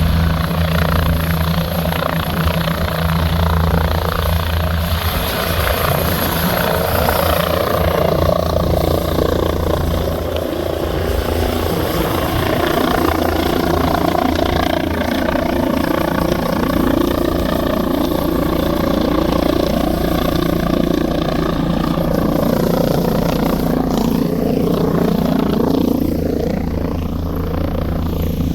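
Air ambulance helicopter's rotors and turbine engines running loud and steady, with a low droning rotor tone under a wavering turbine whine.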